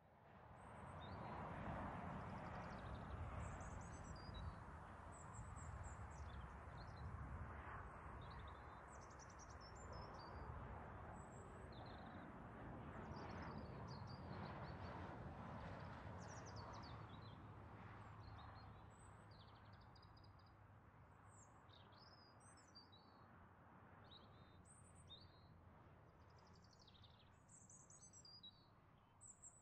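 Birds chirping: many short, high chirps scattered throughout, over a faint steady low rumble that fades in at the start and eases off about two-thirds of the way through.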